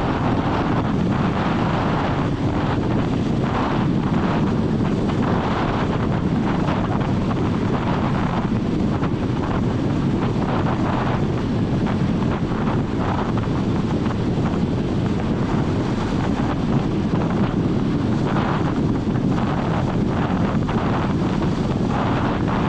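Steady road noise from a moving vehicle, with wind buffeting the microphone in uneven gusts.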